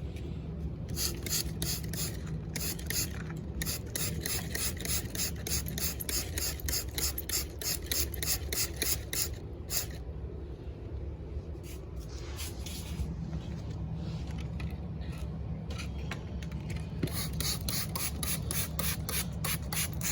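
Fast back-and-forth scrubbing on a plastic toy car, scratchy strokes at about four a second in long runs, breaking off briefly a few times.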